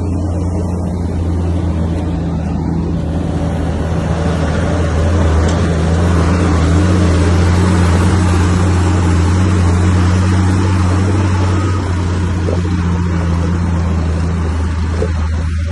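Komatsu bulldozer's diesel engine running steadily, a low drone that works harder for several seconds in the middle, then eases back near the end.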